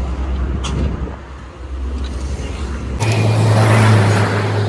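Vehicle engine running steadily; about three seconds in the sound changes abruptly to a louder, slightly higher engine hum with hiss.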